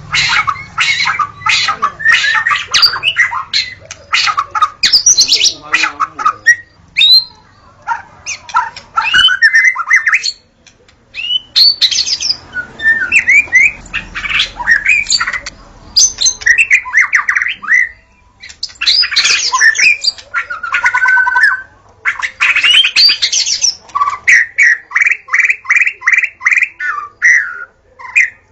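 White-rumped shama (murai batu) singing: loud, varied phrases of whistles and rapid chattering notes with short pauses between them, ending with a run of evenly repeated notes.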